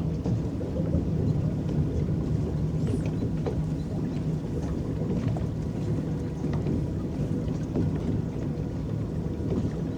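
Electric paddle boat moving across a lake: a steady low rumble of its motor and paddles churning the water.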